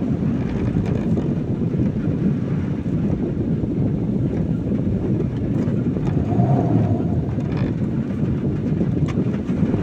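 Car driving in heavy rain, heard from inside the cabin: a steady low rumble of engine and tyres on the wet road, with a brief faint rise in engine note about six and a half seconds in.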